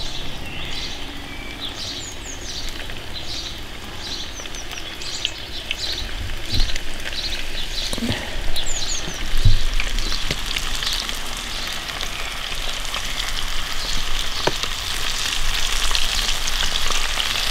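Floured trout pieces deep-frying in hot oil, sizzling and bubbling; the sizzle grows louder as more pieces are dropped into the pan, with a few light knocks along the way.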